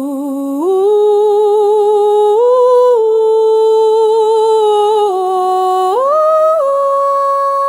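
Wordless humming opening a song: one voice holds long, slow notes that step up and down in pitch, some with a slight waver.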